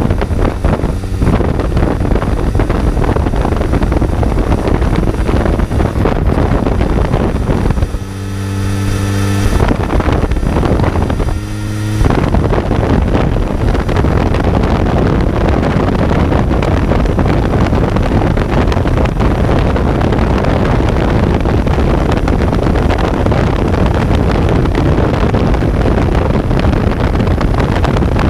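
Kawasaki Z900 inline-four engine running under way, heard on board and mostly buried under loud wind rush on the microphone. About eight seconds in the wind drops and the engine's note stands out clearly for about four seconds, broken briefly twice, before the wind rush covers it again.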